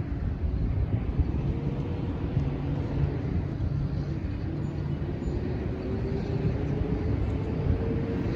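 Freight train running past: a steady low rumble, with a tone that slowly rises in pitch.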